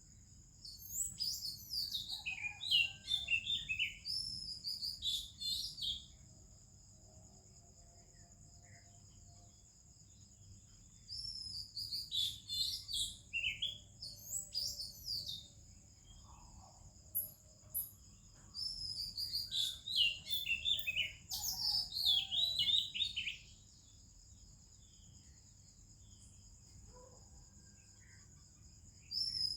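Oriental magpie-robin singing: three runs of quick, varied whistles and warbles, with pauses of several seconds between them, and another run starting near the end.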